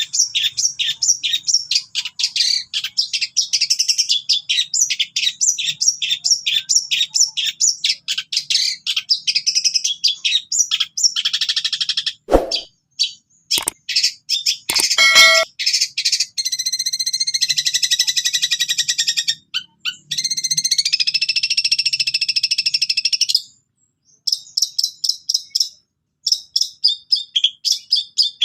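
Long-tailed shrike (cendet) singing, in a song packed with mimicry of other birds. Rapid runs of high, sharp repeated notes, about five a second, are broken by a few harsh, clicky notes about halfway, then long trilled phrases, short pauses and more rapid notes near the end.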